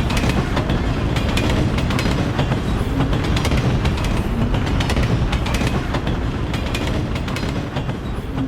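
Train running along the track: a steady rumble with repeated clicks of the wheels over the rail joints.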